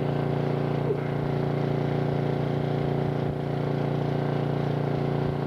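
Generator engine running steadily with an even hum, supplying power during an outage.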